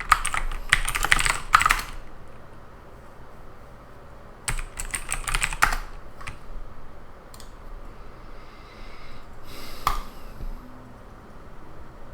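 Typing on a computer keyboard in two quick bursts of keystrokes, followed by a few single clicks and a brief soft rustle.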